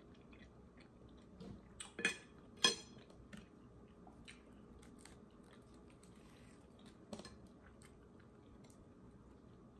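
Quiet eating sounds: chewing with small, scattered mouth clicks, and two sharp clinks about two seconds in, typical of a metal fork set down on a ceramic plate, with one more click near the end.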